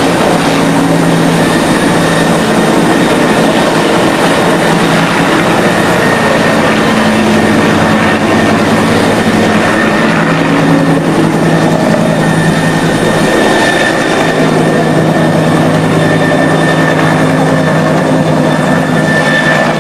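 A loud, steady engine drone with a constant hum under a dense rush of noise.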